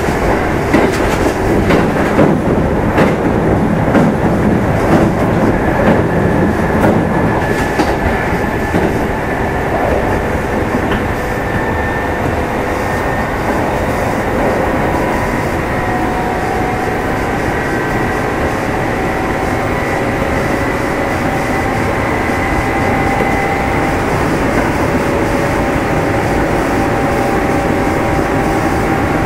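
Kintetsu 2610 series electric train running at speed, heard from inside motor car Mo 2668. Wheels click and clatter over rail joints through the first several seconds, then the running settles into a steadier rumble with faint steady whining tones.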